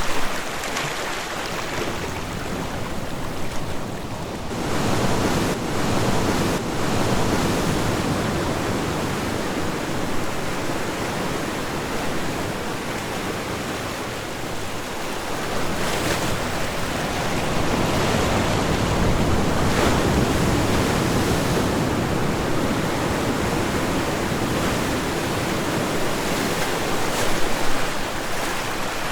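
Ocean waves breaking and washing on a shore, a continuous rush that swells and ebbs over several seconds, with a few sharper splashes near the end.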